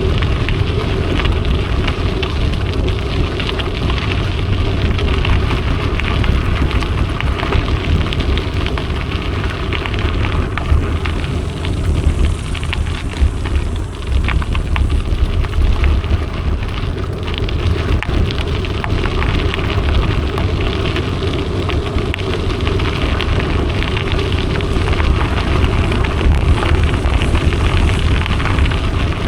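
Mountain bike being ridden: continuous tyre crunch and crackle on the trail with a heavy low rumble of wind buffeting the camera microphone.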